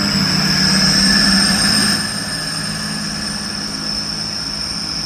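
Train noise at the station platform: a loud, steady rush with a high-pitched whine over it and a low hum, easing a little about two seconds in.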